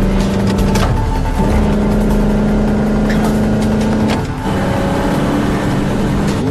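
Car engine running hard under load, a steady held drone that breaks off briefly about a second and a half in and again about four seconds in, picking up with a slight rise in pitch after the second break.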